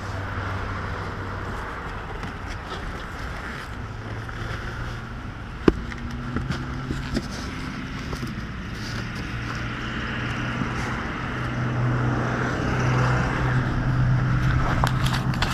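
An engine running with a steady low hum that grows louder and slightly higher in pitch near the end. There is one sharp click about six seconds in.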